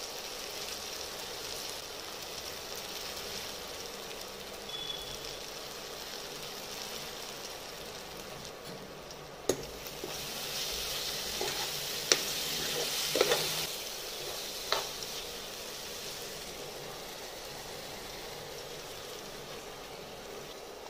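Onion-tomato masala sizzling steadily in a nonstick kadai. From about ten seconds in, the sizzle grows louder as a steel spoon stirs in the spices, with a few sharp clicks of the spoon against the pan.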